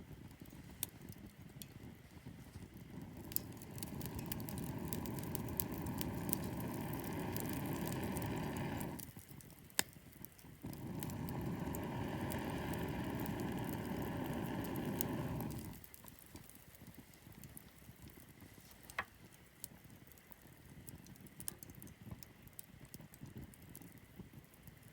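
Wood campfire crackling, with sharp pops scattered throughout. Twice, a steady rushing sound of about five seconds rises over it, with a short break between.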